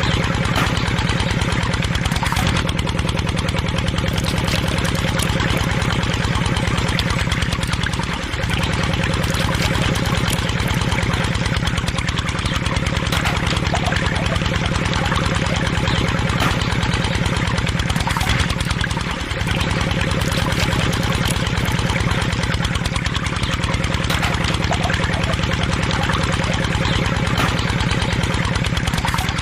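A motor running steadily with a fast, even pulse, dipping briefly twice.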